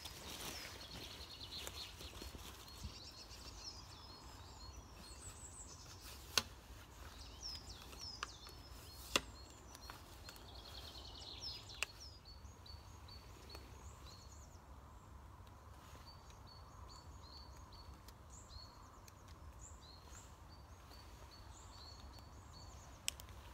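Small woodland birds chirping and calling in short high notes, with a run of quickly repeated notes in the second half. A few sharp clicks stand out now and then, over a low steady rumble.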